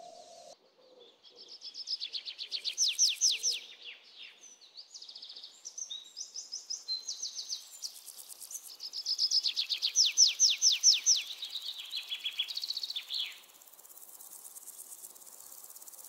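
A songbird singing: long phrases of rapid, short, down-slurred high notes, loudest about three seconds and ten seconds in. A fainter, high, fast pulsing follows near the end.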